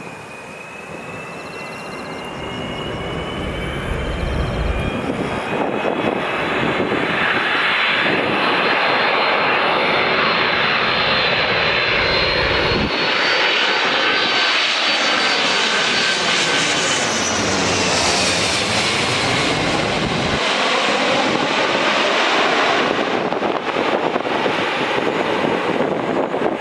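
Airbus A330-300 jet airliner flying low on landing approach. The whine of its twin jet engines grows louder and slowly rises in pitch as it nears. About two thirds of the way through it passes overhead, and the whine drops in pitch as it moves away.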